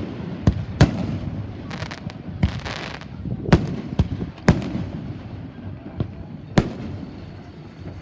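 Fireworks going off: sharp bangs at uneven intervals, about six in all, with a spell of crackling shortly after the first two.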